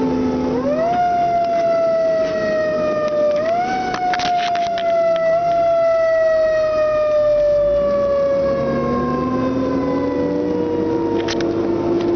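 Fire engine siren on an emergency run: it winds up quickly twice in the first few seconds, then falls slowly and steadily in pitch, while a second, lower siren tone rises near the end. A few short sharp clicks come through a few seconds in.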